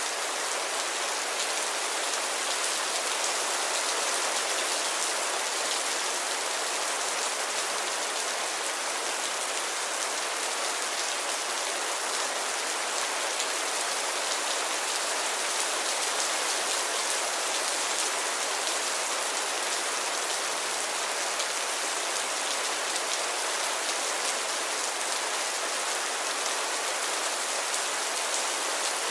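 Steady rain falling, an even hiss with fine patter of drops and no pauses or thunder.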